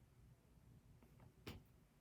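Near silence: quiet room tone, with one faint click about one and a half seconds in.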